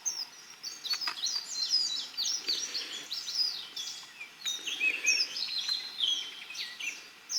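Several wild birds singing and chirping together, a steady run of many short, quick whistles and chirps overlapping.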